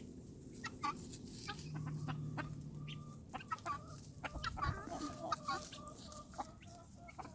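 Chickens clucking softly, with many small clicks and taps scattered through.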